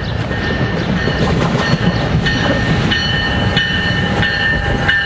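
New Jersey Transit passenger train passing close by: a steady loud rumble with the wheels clicking over rail joints and a thin high ringing from the wheels on the rails.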